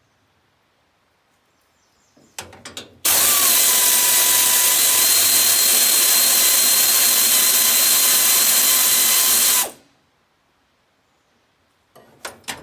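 A power tool runs at one steady pitch for about six and a half seconds, then cuts off abruptly; a few clicks come just before it starts.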